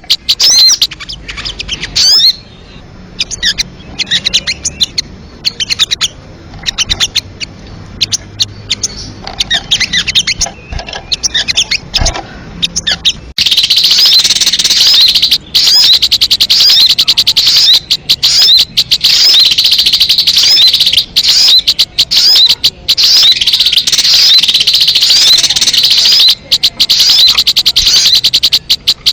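Recorded lure call of sogon birds: rapid, high-pitched chirps and short trills repeated over and over. About 13 seconds in it switches abruptly to a louder, denser run of calling.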